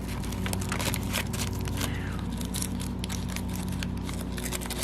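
Aluminium foil crinkling and crackling in quick, irregular clicks as it is folded by hand around a microphone's frame, over a steady low hum.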